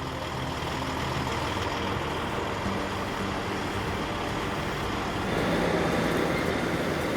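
Heavy-haul truck engines running under load with road noise, growing a little louder about five seconds in.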